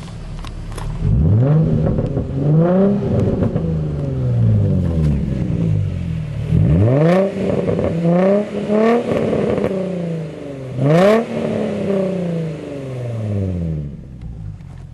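Nissan 350Z's 3.5-litre V6 revved repeatedly through a custom single-exit Greddy Evo2 muffler and test pipes. Each blip rises quickly and falls back slowly. There is a sharp crack about eleven seconds in, and the engine settles lower near the end.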